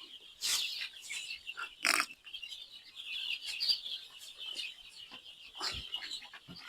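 A flock of young chicks peeping constantly in a dense, high-pitched chorus, with a few louder sharp noises about half a second, two seconds and six seconds in.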